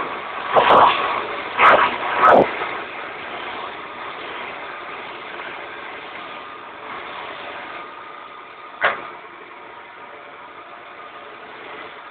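Wood lathe running steadily, with several loud bursts of noise in the first two and a half seconds and a sharp knock about nine seconds in.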